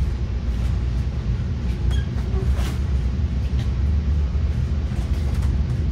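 Metra commuter train heard from inside a passenger car while rolling along the track: a steady low rumble with a few scattered sharp clicks.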